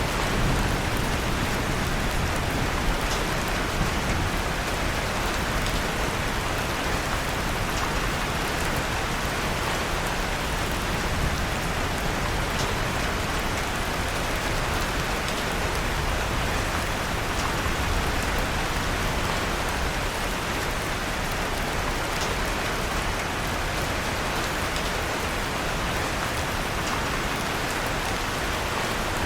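Steady rain falling in an even hiss, mixed with the soft crackle of a wood fire in a fireplace, heard as faint scattered clicks.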